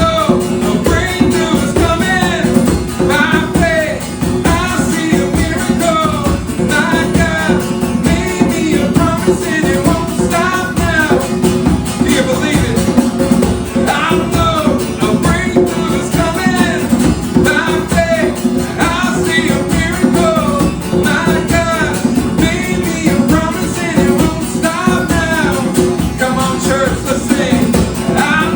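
Acoustic worship band playing a song with guitar, and a voice singing over it.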